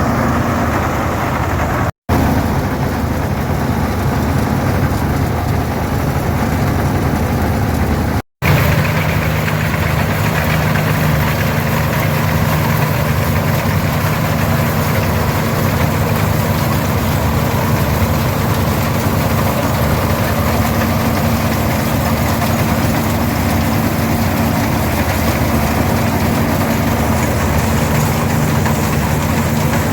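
International Harvester 460's six-cylinder diesel engine running steadily under load as it pulls an International 82 pull-type combine, whose threshing machinery runs along with it as a constant drone. The sound drops out briefly twice, about 2 and 8 seconds in.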